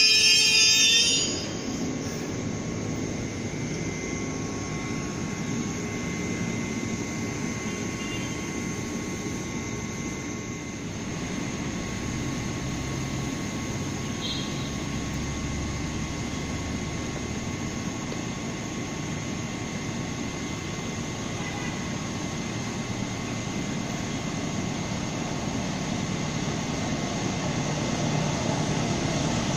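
Steady trackside rumble and hum of trains, growing gradually louder over the last few seconds as a locomotive-hauled passenger train approaches.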